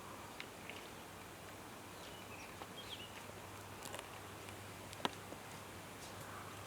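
Faint outdoor bush ambience over a steady low hum, with a few short bird chirps and scattered small clicks; one sharper click about five seconds in.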